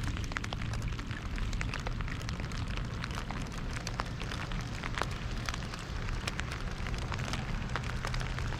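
Rain falling, with many irregular sharp drop hits close by, over a steady low hum.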